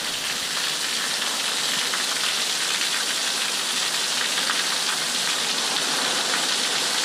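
Heavy rain bucketing down in a steady downpour: a dense, even hiss.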